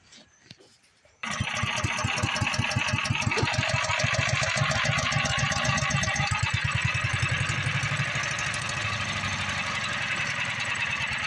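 Predator single-cylinder small engine on a wood chipper catching about a second in and then running steadily at fast idle, its firing pulses even. It runs after its carburetor was sprayed clean to cure a fuel-starvation no-start.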